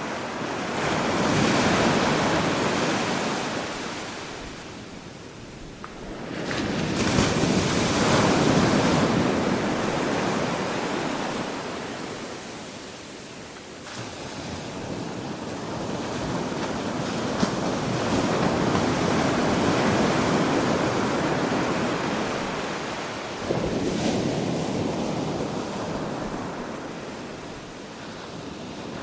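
Ocean surf breaking on a beach, the rushing wash swelling and fading in slow surges several seconds apart.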